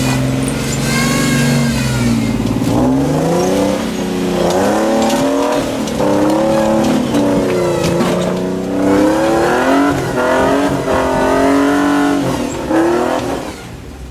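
Off-road 4x4 truck's engine revving hard, its pitch rising and falling again and again as it works up rough, rocky ground; the revs fall away near the end.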